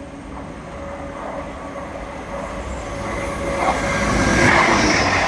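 Grand Central Class 180 Adelante diesel multiple unit running through the station at speed, its rumble and wheel noise building as it approaches and peaking about four and a half seconds in.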